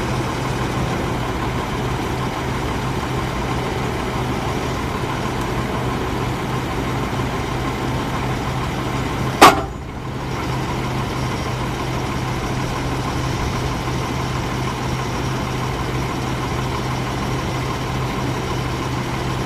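Freightliner M2 boom truck's 6.4 L six-cylinder diesel idling steadily with a low, even hum. About halfway through there is a single sharp knock, louder than the engine.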